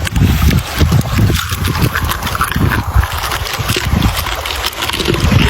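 Camel sounds close to the microphone: irregular low, rough pulses over a steady background rush.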